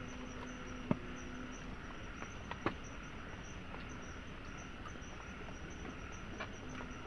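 Tropical forest insects trilling, a steady high pulsing chirr over a soft wash of background noise, with a few short sharp ticks.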